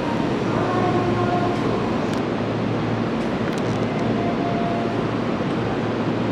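Electric commuter train moving along the station platform: a steady rumble of wheels and running gear, with faint whining tones laid over it.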